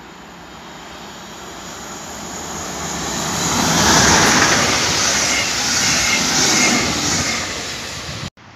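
Electric locomotive-hauled train of double-deck coaches passing through the station: a rushing wheel-and-rail noise that swells as it approaches and is loudest about four to seven seconds in, with a faint high squeal from the wheels as the coaches go by. The sound cuts off suddenly just before the end.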